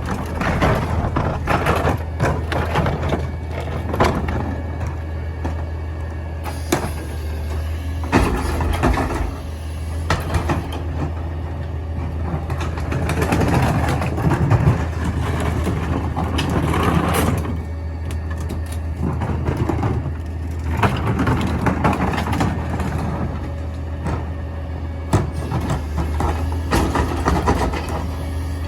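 Mini garbage truck running, a steady low engine hum under repeated clanks, bangs and rattles of metal and trash.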